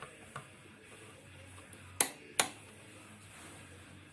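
Click-type torque wrench clicking as the brake caliper mounting bolts reach their set torque of 40: a faint click about a third of a second in, then two sharp clicks close together about two seconds in, over a faint steady hum.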